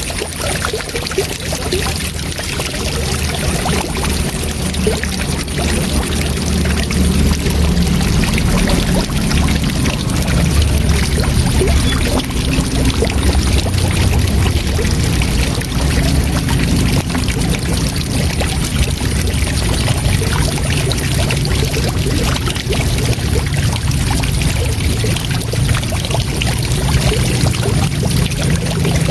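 Waterfall: water falling and rushing in a steady, continuous roar, heaviest in the low rumble.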